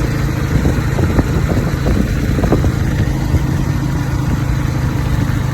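Tuk tuk's engine running steadily during the ride, heard from the passenger seat with road noise, and a few knocks and rattles in the first half.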